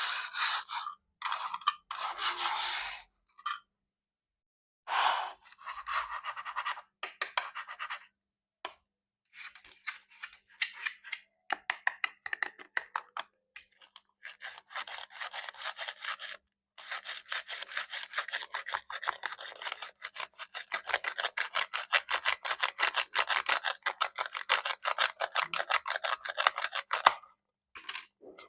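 Knife cutting plastic toy fruit: rasping, scraping strokes, first in short bursts with pauses, then a long run of fast rasping strokes from a little past halfway until near the end.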